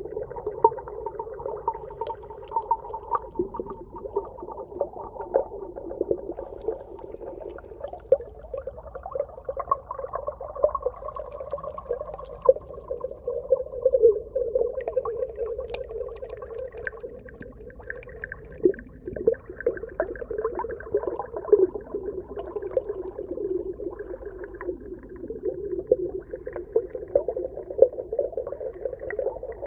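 Underwater ambience: a steady, muffled wash of sound with many small clicks and crackles running through it.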